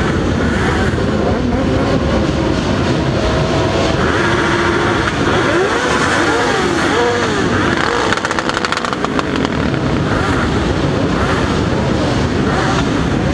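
Several motorcycle engines idling and revving together, their pitches rising and falling over one another, with a brief fast stutter about eight seconds in.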